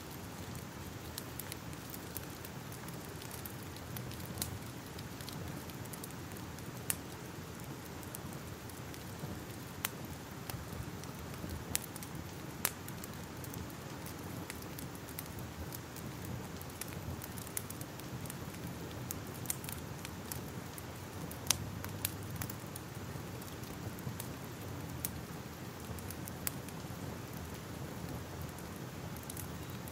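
Crackling fire: a steady low rush of burning with irregular sharp pops and snaps scattered through it.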